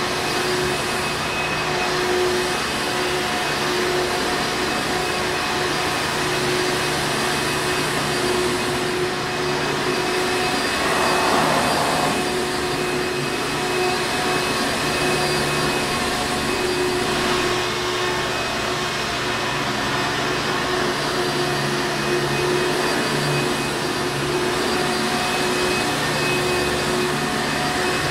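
Hoover Encore Supreme upright vacuum cleaner running steadily: a constant motor hum over rushing air, with a brief swell in the noise about eleven seconds in.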